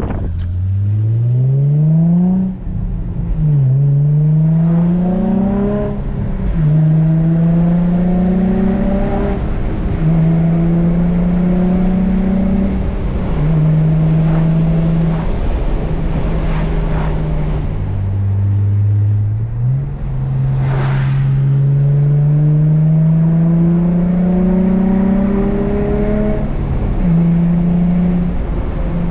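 Infiniti G35 coupe's 3.5-litre VQ V6 through a Z1 M Spec dual exhaust, driven hard through the gears of its manual gearbox. The engine note climbs and drops back at each shift, over and over, with one brief sharp noise about two-thirds of the way through.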